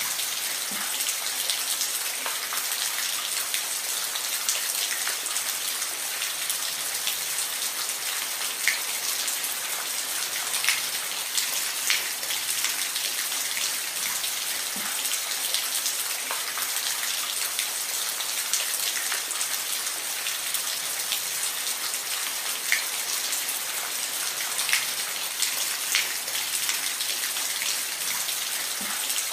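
Steady rain, a dense even hiss with scattered close raindrops ticking sharply on a surface.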